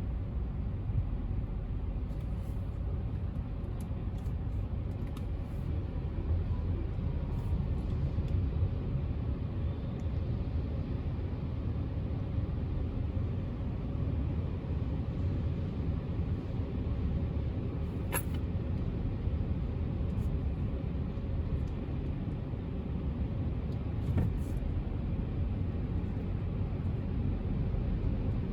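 Automatic tunnel car wash heard from inside the car's cabin: a steady, low rumbling wash of noise from the wash equipment working over the car, with a couple of faint clicks.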